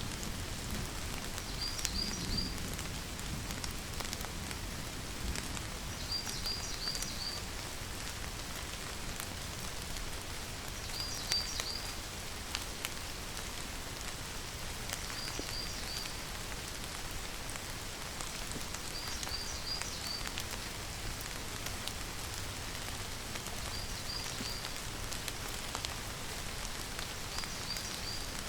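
Steady rain falling, with single drops ticking close by. A bird repeats a short, high call of three or four quick notes about every four seconds.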